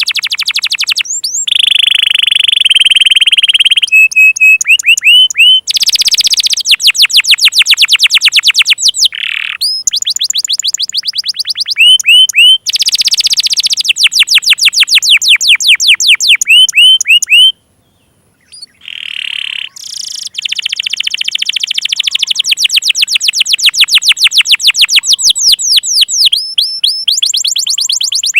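Domestic canary singing: loud, fast trills of rapidly repeated notes that switch from one phrase to the next every second or two, with a short pause about two-thirds of the way through. It is a lure song, the kind played to get young or non-singing canaries to sing.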